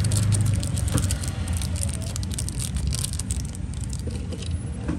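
Metal lighters being handled: quick light clicks and rattles, thickest in the first three and a half seconds, over a steady low rumble of road traffic.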